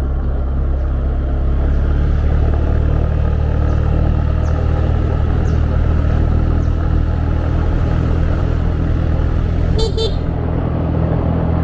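A 125 cc motorbike engine running steadily under way, with wind and road noise. About ten seconds in, a horn gives two quick beeps.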